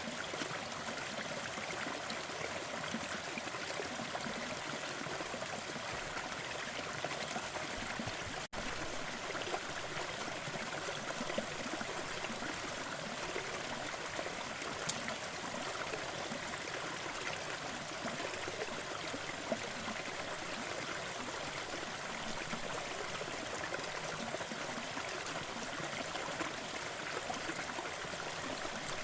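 Waterfall: a steady rush of falling water that cuts out for an instant about eight seconds in.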